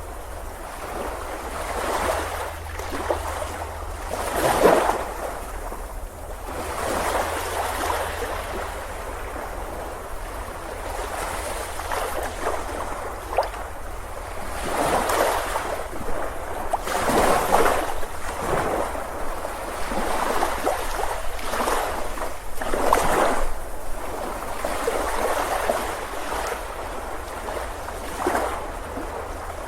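Sea surf on a beach: waves break and wash in, surging and fading every few seconds over a steady low rumble.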